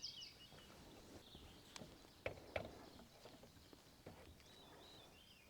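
Faint birdsong: a quick run of high chirps at the start and a wavering call near the end, with a few soft knocks around two seconds in.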